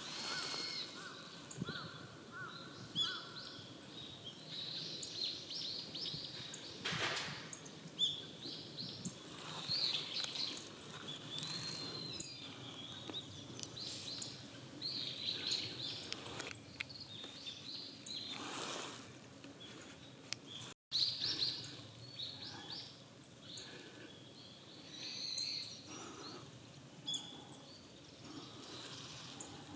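Small songbirds, likely the rustic buntings feeding in the leaf litter, giving short, high chirping calls over and over at irregular intervals against a background of woodland noise.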